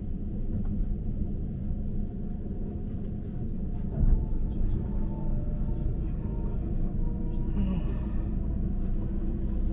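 Passenger train running at speed, heard from inside the carriage: a steady low rumble of the wheels and running gear, with a single jolt about four seconds in.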